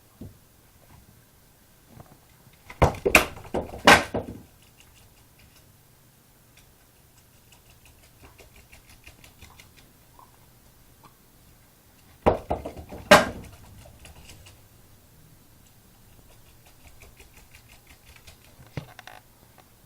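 A Jack Russell terrier's claws pattering on a hard floor as it scrambles about during indoor ball play, broken twice by a burst of sharp knocks and bangs, once about three seconds in and again about twelve seconds in.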